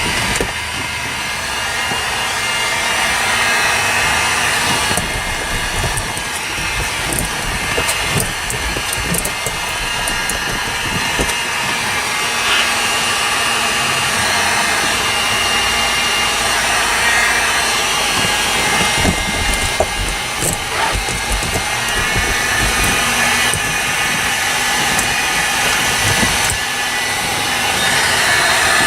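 Steady blower-like motor noise runs throughout, with scattered light clicks and taps.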